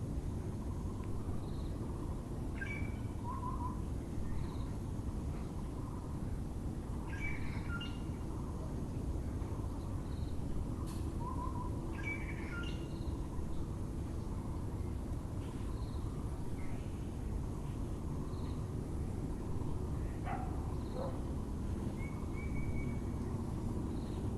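Several birds calling: short chirps and whistles every second or two, over a steady low rumble of background noise.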